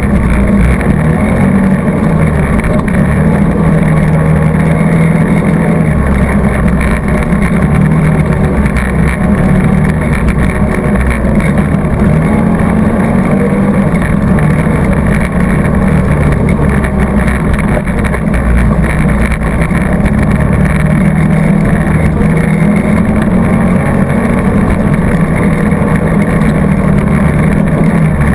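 ATV engine running continuously under throttle, loud, its low note rising and falling a little as the throttle changes.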